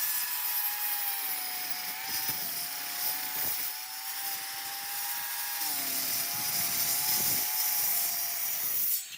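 Electric power tool working wood, its motor whine wavering and sagging slightly under load over a dense hiss of cutting. It cuts off suddenly near the end.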